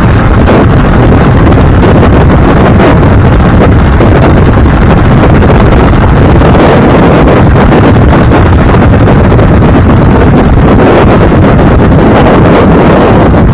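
Loud, steady wind rush and road noise from a moving vehicle, the wind buffeting the microphone.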